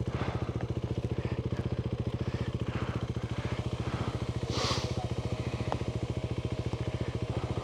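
Adventure motorcycle engine idling steadily with an even, fast pulse. About four and a half seconds in there is a short hiss.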